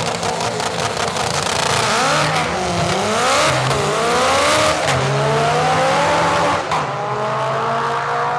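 Drag race cars launching and accelerating hard down the strip, engine pitch climbing and dropping back at each gear change before a long steady rise.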